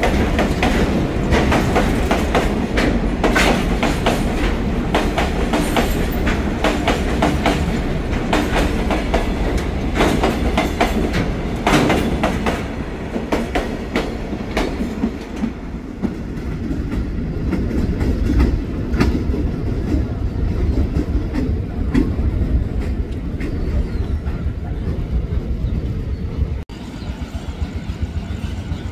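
Train passing close by: the steady clickety-clack of wheels over rail joints above a low rumble, dense for the first half, then thinning out as the rumble carries on.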